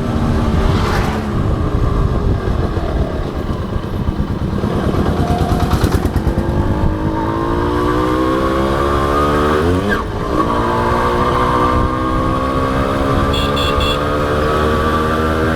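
Honda H100S motorcycle's small single-cylinder four-stroke engine heard from on board while riding: the engine note eases off at first, then rises steadily as the bike accelerates, with a short drop around ten seconds, like a gear change, before settling into a steady cruise. A few short high beeps sound near the end.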